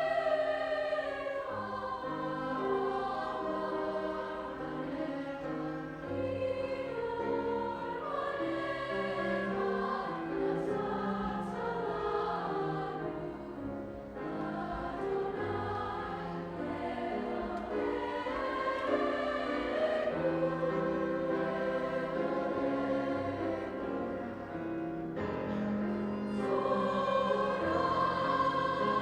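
A choir singing a sustained, chordal piece, with low bass notes underneath.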